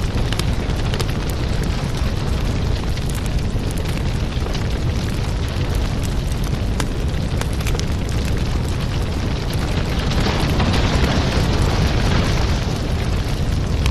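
Firewood burning: a steady low rumble of flames with frequent sharp crackles and pops, swelling louder about ten seconds in.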